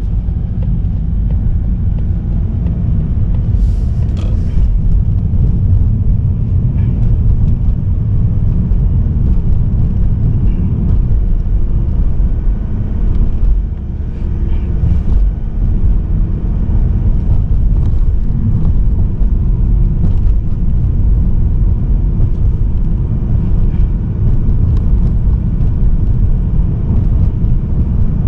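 A car driving at road speed, heard from the car itself: a steady low rumble of tyre and engine noise from a Mazda3 with a 1.8-litre diesel engine.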